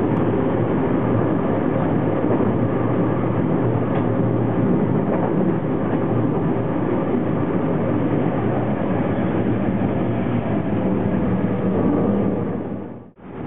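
JR West electric Special Rapid train running along the Kobe Line, heard from behind the driver's cab: a steady rumble of wheels on rail with a faint steady tone running through it. The sound fades and cuts out for a moment just before the end.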